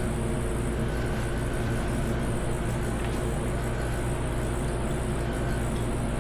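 Steady mechanical hum of garage background noise, even in level, with a faint small click about three seconds in.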